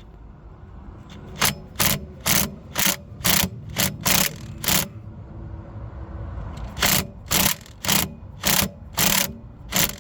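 Impact wrench hammering in short trigger bursts, about two a second, in two runs with a pause between, working on a tight diesel injector fitting to crack it loose.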